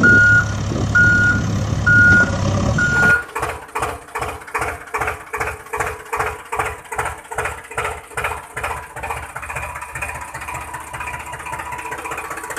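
A vehicle reversing alarm beeps four times, about once a second, over a running engine. Then a diesel engine chugs in a steady rhythm of two to three beats a second, evening out near the end.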